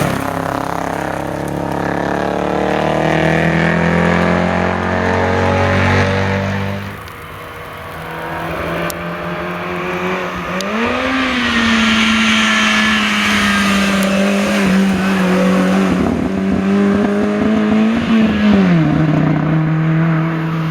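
Historic rally car engines at full throttle on a special stage. The first car's engine note falls away over the first six seconds. After a short lull a second car arrives, its pitch rising sharply about halfway through, holding high, then jumping and dropping again near the end.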